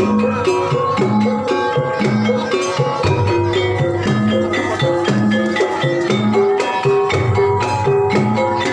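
Traditional Banyumasan Javanese hobby-horse dance music: low hand-drum strokes in a steady repeating rhythm under short struck, pitched notes of tuned percussion playing a repeating melody.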